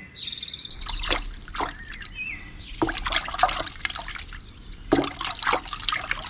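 Water splashing and trickling in short bursts, a few clusters of splashes a second or two apart, with small birds chirping.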